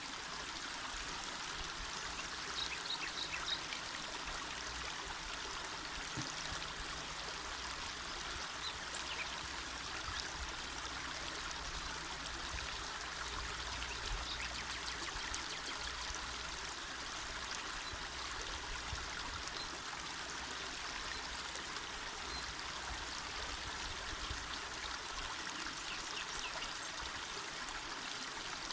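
Small mountain river flowing: a steady, even rush of water.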